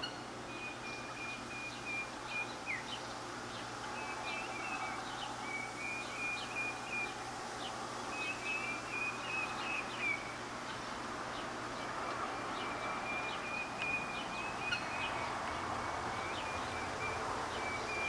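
Bird calls outdoors: a short high trill at a nearly steady pitch, repeated every second or two, over steady outdoor background noise.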